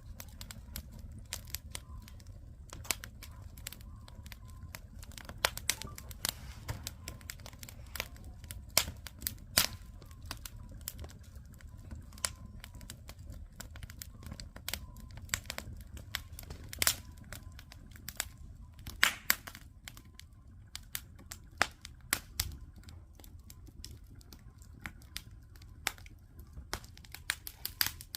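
Campfire crackling, with irregular sharp pops of burning wood over a low steady rumble.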